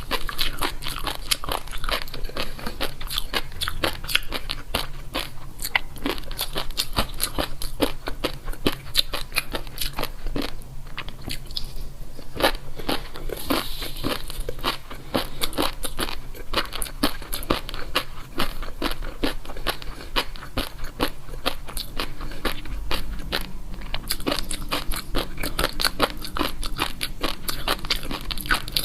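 A person chewing crunchy food close to the microphone: a dense, continuous run of crisp crunches, thinning out briefly near the middle.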